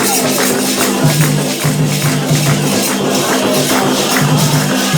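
Candomblé ritual music for Xangô: rhythmic hand percussion with steady shaker-like rattling and repeated strikes.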